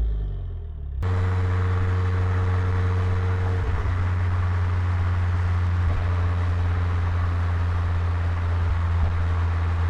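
Volvo S60R turbocharged inline-five through a custom cat-back exhaust and 3-inch downpipe: a falling engine note breaks off, and about a second in a steady exhaust drone at constant revs takes over.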